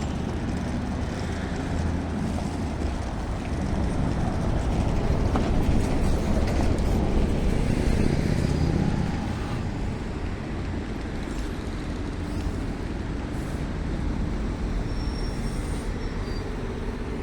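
City buses and trolleybuses running and idling, with a steady low rumble; one vehicle grows louder as it passes close by in the middle, then fades.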